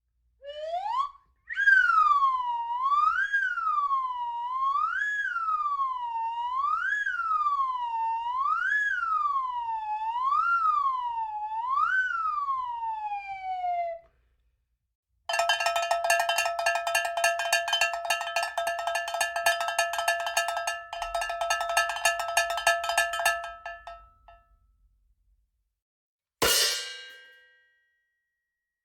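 A slide whistle glides up, then swoops up and down again and again, about once every two seconds, before sliding down and stopping. Then a cowbell is rung rapidly for about nine seconds, and near the end a single crash cymbal hit rings out.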